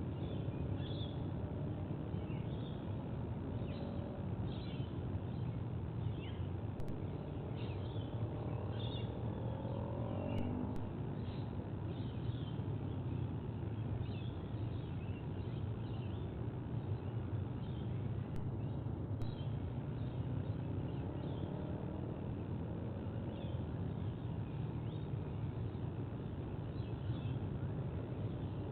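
Birds chirping in short, frequent calls over a steady low background rumble, with a faint sliding tone rising and falling now and then.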